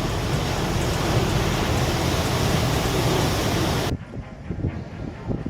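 Loud rushing noise of storm-driven waves and wind, which cuts off abruptly about four seconds in to a quieter stretch of wind and surf.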